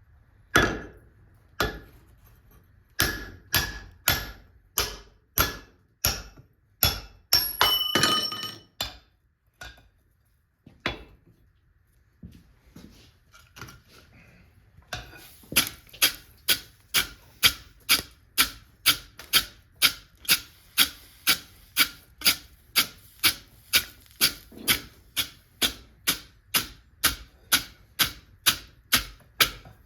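Hammer blows forging hot steel bar on an anvil: a run of strikes about every half second, a few ringing near the eighth second, then a pause of a few seconds with only scattered taps, then a steady run of blows about two a second.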